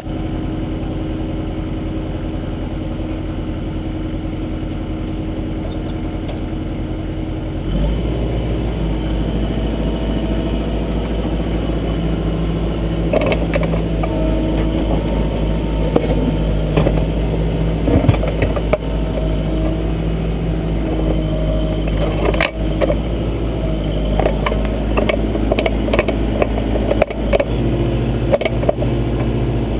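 Kubota backhoe's diesel engine running steadily, then throttled up about eight seconds in. From about thirteen seconds on, irregular clanks and knocks sound over the engine as the backhoe arm and bucket work.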